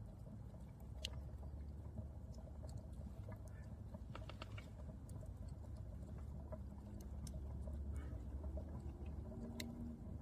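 Campfire crackling: scattered sharp pops and snaps, a small cluster of them about four seconds in, over a steady low rumble.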